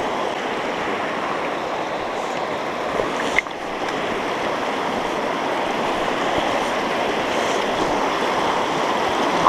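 River water flowing steadily, a constant rushing, with a short click about three and a half seconds in.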